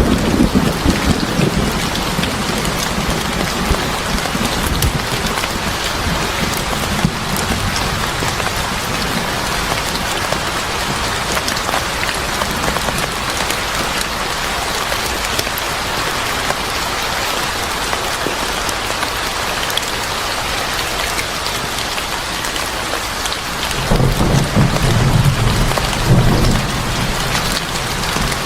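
Steady heavy rain falling, with a low thunder rumble that dies away in the first couple of seconds and another that rolls for about three seconds near the end.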